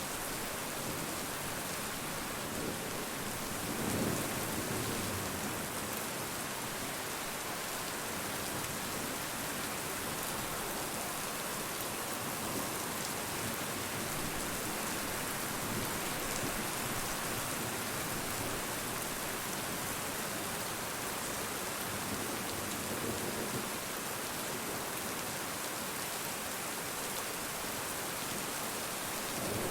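Steady rain, a dense even hiss of falling drops, with two brief low swells, about 4 seconds in and again near 23 seconds.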